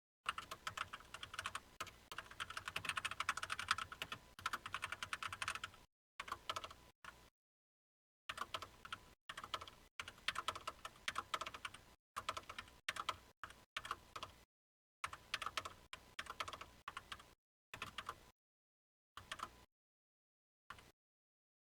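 Typing on a computer keyboard: runs of rapid keystrokes in bursts, broken by short pauses, with the longest run in the first six seconds.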